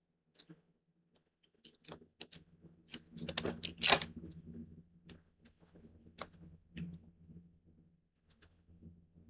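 Sticky tape being handled and pulled off the roll, with light clicks and paper rustles, and a longer scratchy pull around the middle.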